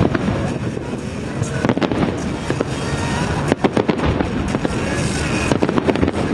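Aerial fireworks bursting in quick succession: sharp bangs and crackling, heaviest in two clusters around the middle and near the end.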